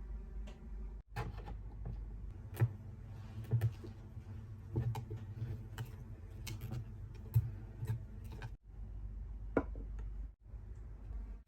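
A dozen or so light, sharp clicks and taps, scattered irregularly over a low steady hum, with brief dropouts where the sound cuts.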